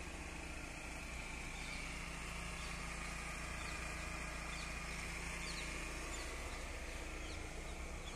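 Audi A4 engine running steadily, a low even hum. Faint short bird chirps are heard over it.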